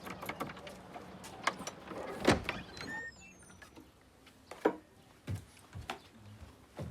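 Scattered light knocks and clicks of things being handled and packed, with a faint low hum in the first half.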